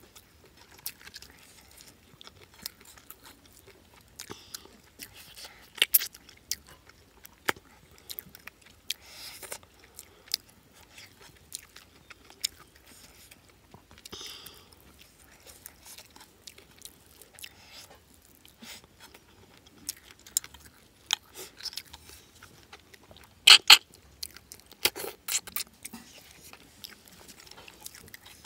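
A person chewing a mouthful of rice and cooked snails close up, with many short mouth clicks and smacks, a couple of louder ones late on.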